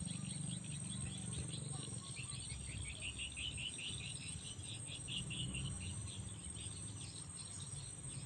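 Insects chirping in quick, rapidly repeated pulses over a steady, high-pitched insect drone, loudest in the middle.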